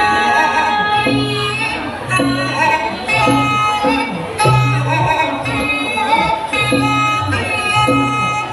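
Thai traditional music accompanying a lakhon nok dance-drama: a sung or played melody of held, gliding notes over a low drum beat that comes about once a second.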